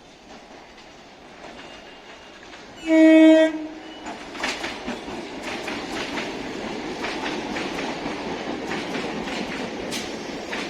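Electric multiple-unit suburban local train approaching and passing. Its rumble rises, then it sounds one short horn blast, the loudest sound, about three seconds in. After that its wheels clatter with repeated clicks over the rail joints.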